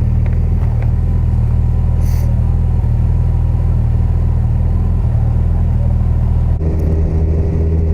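Yamaha FJR1300's inline-four engine running steadily under way. The engine note changes about six and a half seconds in.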